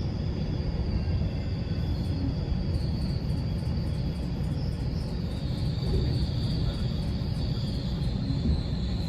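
Steady low rumble of a GO Transit commuter train running on the rails, heard from aboard, with a thin high whine that drops slightly in pitch about five seconds in.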